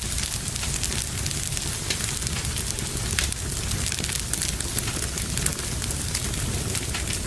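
Wood fire crackling in a fireplace: many small, sharp pops and snaps over a steady low rumble of flames.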